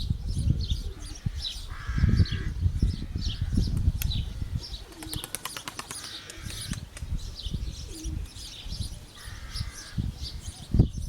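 Pigeons flapping their wings and cooing, with a quick run of clicks or claps about five to six seconds in, over many short high chirps. A low gusty rumble of wind on the microphone runs underneath.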